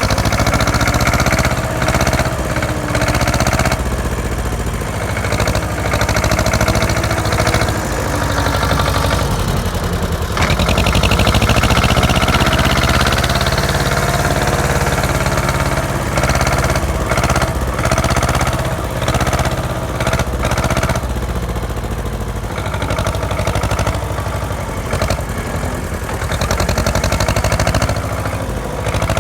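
Diesel tractor engine running continuously, its pitch shifting now and then.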